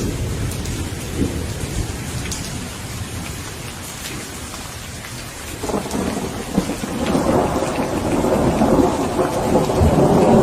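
Steady rain with rolling thunder. The low rumble eases off a few seconds in, then a new roll of thunder swells from about six seconds and grows louder toward the end.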